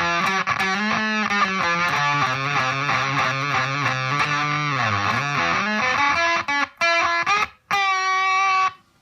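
Electric guitar, a Gibson SG 61 reissue on its neck pickup, played through a Zvex Fuzz Factory fuzz pedal into a Roland Cube 30 amp. It gives thick sustained fuzzed notes with pitch bends, then a few short choppy stabs and a held note that stops abruptly just before the end.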